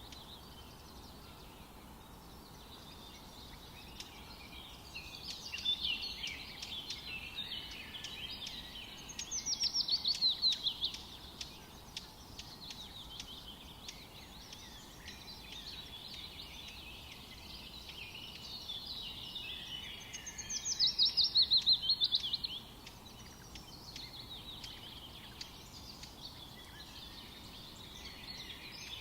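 Forest birds singing over a soft background hiss, several birds calling at once. Twice, about ten seconds apart, one bird sings loud, with a quick run of notes falling in pitch that lasts about two seconds.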